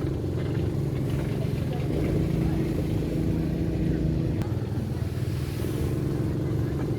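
A vehicle's engine running at a steady speed, a continuous low hum with no breaks.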